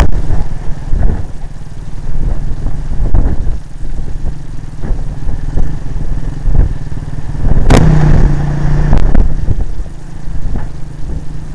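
Honda CRF50 dirt bike's small single-cylinder four-stroke engine running steadily, with a heavy, unsteady low rumble over it; the engine note grows louder and steadier for a second or so about eight seconds in.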